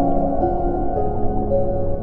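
Slow ambient music of long, overlapping held tones that change pitch in steps, blended with whale song: a short downward moan about a second in.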